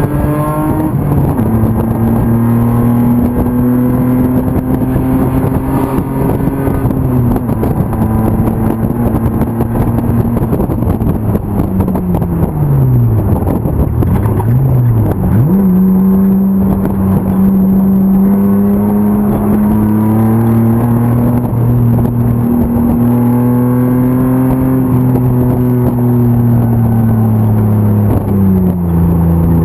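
BMW M50 straight-six race engine at full throttle, held high for several seconds. About halfway through the pitch falls steeply as the car brakes and shifts down, with a quick blip, then climbs steadily again. Near the end the pitch drops once more as the car shifts gear.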